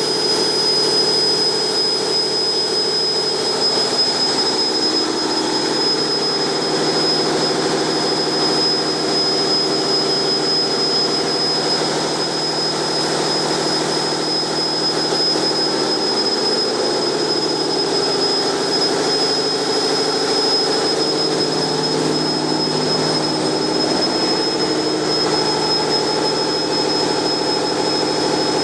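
Sulzer 12RTA96C twelve-cylinder two-stroke marine diesel main engine running steadily at about 70 rpm: a loud, dense engine-room din with a steady high whine over it.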